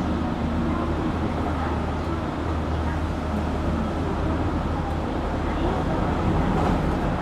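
Running noise inside a JR Kyushu 817 series electric train at steady speed: an even rumble of wheels on rail with a steady low hum from the drive underneath. This unit has an unusual running sound, likened to a Keio 7000 series train.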